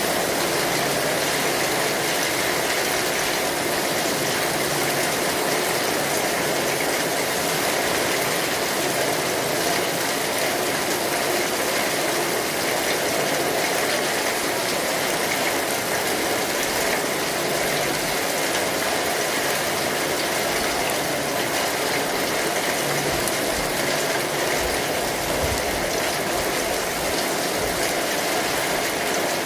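Steady rain falling on an umbrella canopy, heard from underneath it as a dense, even patter.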